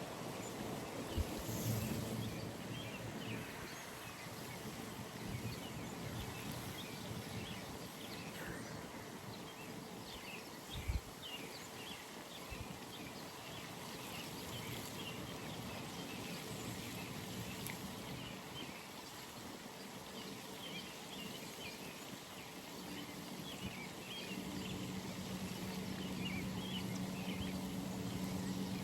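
Early-morning pond ambience: many small birds chirping over a steady outdoor hiss, with a couple of brief low thumps. A low steady hum joins about three-quarters of the way through.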